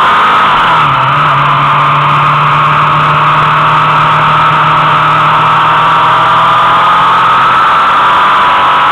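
Motorcycle engine running steadily at speed, its pitch dropping about a second in and then holding level.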